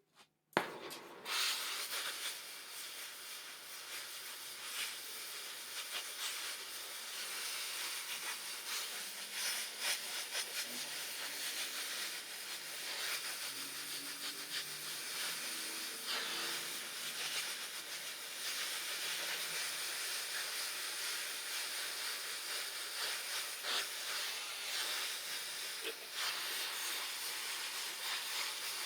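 Metal welding in progress: a steady hiss with scattered crackling that starts abruptly about half a second in.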